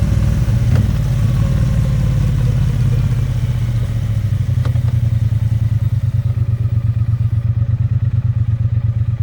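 Triumph Bonneville T100's vertical-twin engine and exhaust winding down, then settling into a pulsing idle about halfway through. Two light clicks come about a second in and near the middle.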